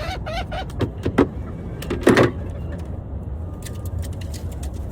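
A chicken clucks briefly, then a few clicks and a loud short scrape as a plastic Omlet chicken coop door is opened, followed by a few lighter clicks, over a steady low rumble.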